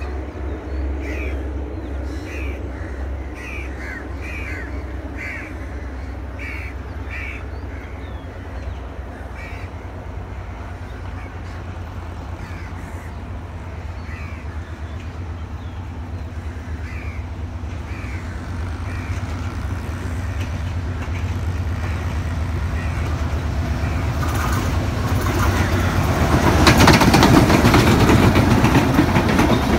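Sri Lanka Railways Class M6 diesel locomotive and its intercity train approaching with a low rumble that grows louder, then passing close with loud engine and wheel noise in the last few seconds. Over the rumble, a bird calls repeatedly, about once a second, for the first ten seconds or so.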